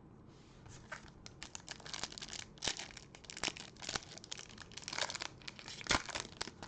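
Plastic foil wrapper of a Bowman trading-card pack being torn open and crinkled by hand, a dense irregular crackling.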